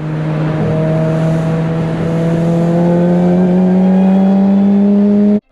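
A vehicle engine pulling steadily, its note climbing slowly and evenly as it accelerates, then cut off abruptly near the end.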